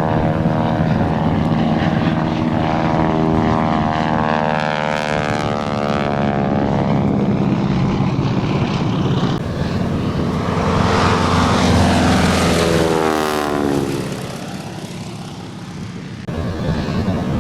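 Propeller-driven Boeing Stearman biplane with a 450 hp Pratt & Whitney nine-cylinder radial engine making a low fly-by: a loud, steady engine drone that builds to its loudest about eleven to thirteen seconds in. The pitch then drops as the plane passes and the sound fades, before it comes back up sharply near the end.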